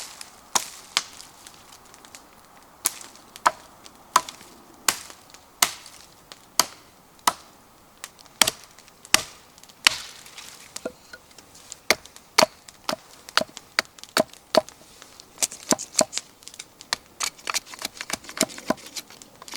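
Wood being chopped: a series of sharp chops, about one a second at first, coming faster near the end.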